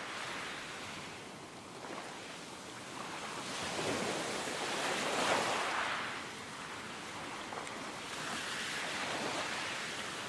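Ocean waves washing in, one surge swelling to a peak about five seconds in and then easing back.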